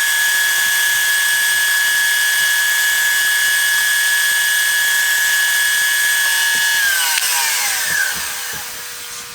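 Electric drill motor running at a steady high speed with a whine, then switched off about seven seconds in and spinning down, its pitch falling away over about two seconds.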